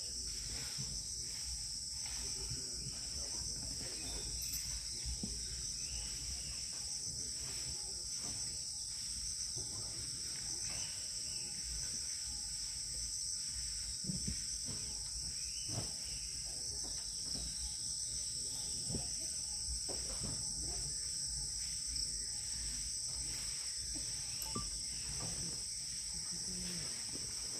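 Steady, high-pitched chorus of insects that never lets up, with a low rumble underneath.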